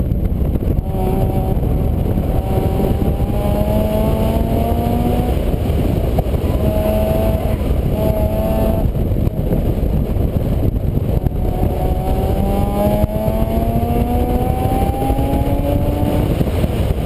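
A vehicle engine whose pitch climbs slowly several times, breaking and starting lower again between climbs, under a heavy, constant low rumble.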